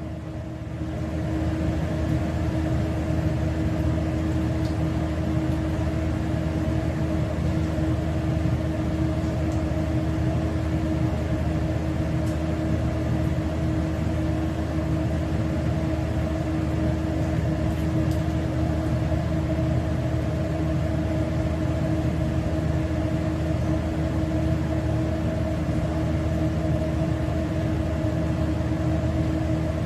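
Steady machine hum with a low droning tone, building up over the first second and then holding unchanged.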